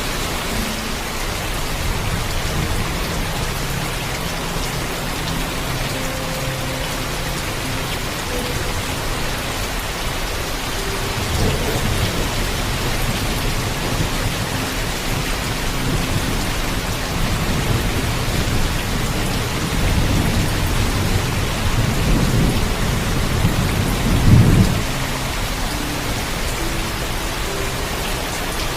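Steady heavy rain with rolling thunder. Low rumbles build in the middle and peak in a loud crack of thunder near the end, which then stops abruptly while the rain carries on.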